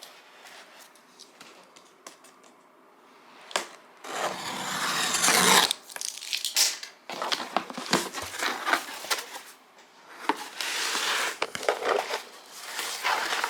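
Packaging being torn open and crinkled by hand. After a few quiet seconds with faint clicks, loud bursts of tearing and crinkling start about four seconds in and come again and again.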